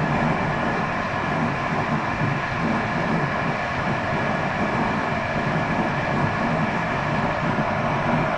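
Passenger train running steadily along the track, a continuous even rumble and rail noise with no distinct clicks or changes.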